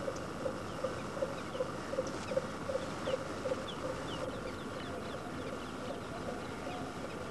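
Marsh bird calls: a low clucking note repeated evenly about three times a second, which gives way about halfway through to higher, less regular notes, with thin falling chirps from small birds over the top.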